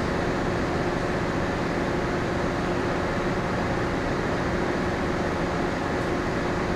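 Steady drone of a berthed passenger ship's onboard machinery and ventilation heard inside the ship: a constant noise with a low, unchanging hum.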